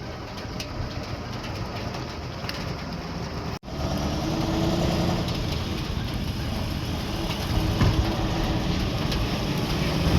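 Sugarcane hauler truck engine running steadily, with a sudden break about three and a half seconds in, after which the engine is louder with a steady low hum.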